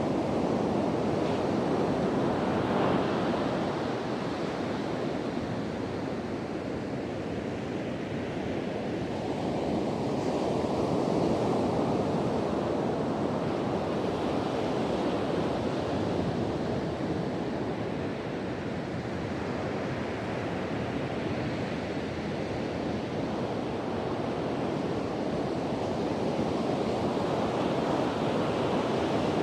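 Ocean surf breaking on a beach, a continuous rushing wash that swells and eases slowly over several seconds, with wind blowing across the microphone.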